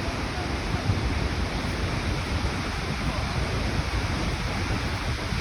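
Skógafoss waterfall's steady rushing of falling water, with an uneven low rumble of wind on the microphone.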